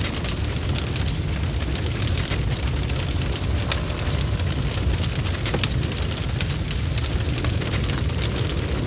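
Bonfire crackling: frequent sharp snaps and pops over a steady low rumble.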